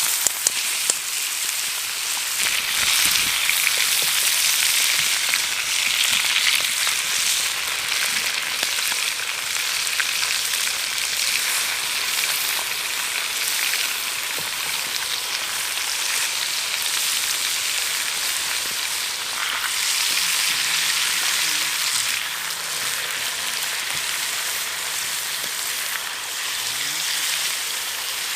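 Food frying in a pan, a steady sizzle, with a few sharp clicks about a second in.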